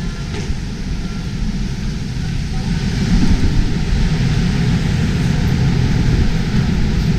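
Steady, low rumbling city street noise with a hiss over it, getting louder about three seconds in.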